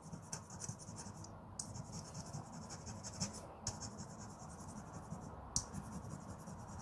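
Tempered-glass filer, 400–600 grit side, rubbed over a plastic model-kit part: a dry, scratchy rasping in long runs broken by short pauses.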